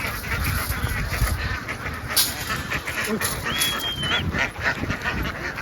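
A large flock of ducks quacking together in a dense, continuous chatter, with a brief high whistle about three and a half seconds in.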